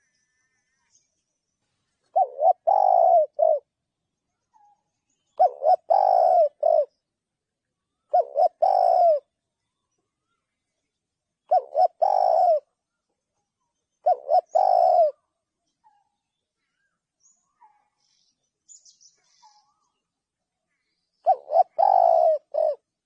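Spotted dove cooing: six phrases of several low, clear coos, each about a second long and a few seconds apart, with a longer pause before the last one.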